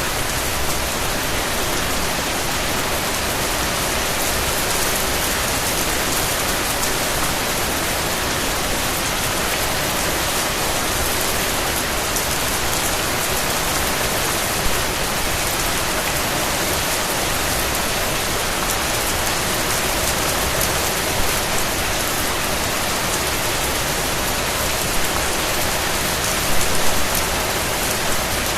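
Steady rain falling, a dense even hiss of drops with a few louder individual drops hitting a surface now and then.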